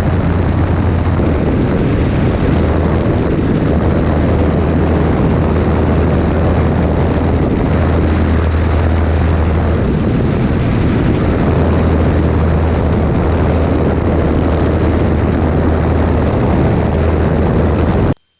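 Small propeller airplane's engine running steadily, a loud even drone with a strong low hum; it cuts off suddenly just before the end.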